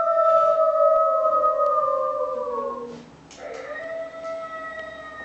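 Wolves howling: one long howl that slowly sinks in pitch and fades out about three seconds in, then a second, steadier howl that starts shortly after.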